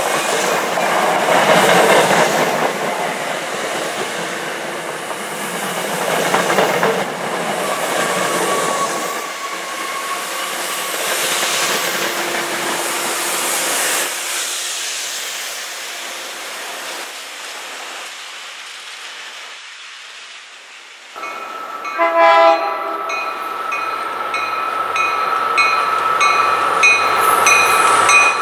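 MBTA commuter train of bi-level coaches passing close at speed, wheels clacking over the rails, the rush fading away. About 21 seconds in, an approaching locomotive sounds a long multi-tone horn, with a bell ringing in steady repeats about once a second.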